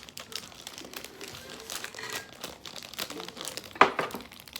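Packaging crinkling and rustling as it is handled, in a run of irregular small crackles with one sharper, louder crackle nearly four seconds in.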